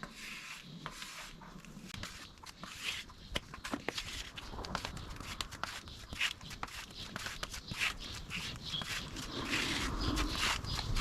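Body filler being worked with a plastic spreader: irregular scraping strokes and small clicks, growing busier and a little louder toward the end.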